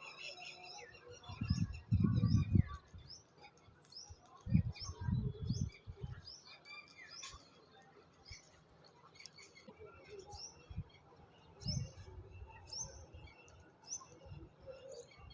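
Several wild birds chirping, with many short, high calls overlapping. Low thumps break in twice in the first half and once more later; these are the loudest sounds.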